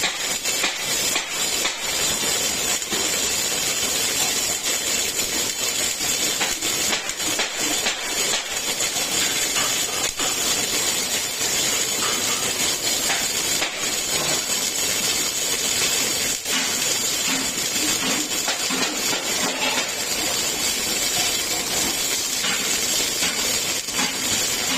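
Welding on a truck muffler production line: a steady hissing crackle with scattered clicks and knocks.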